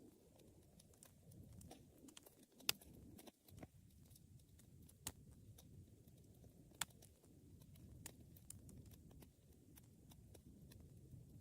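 Wood fire crackling faintly: irregular sharp snaps and pops over a low, steady rumble of burning flames, with three noticeably louder pops spread through.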